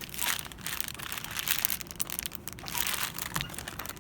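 Plastic packaging crinkling as it is handled, in irregular crackly surges with a few sharp ticks.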